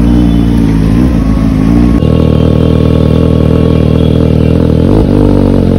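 Motorcycle engine running loud, its revs rising and falling several times as the throttle is worked.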